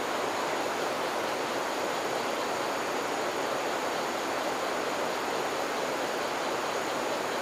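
Steady, even rushing noise with no distinct events or voices, like a stream or rain in the background.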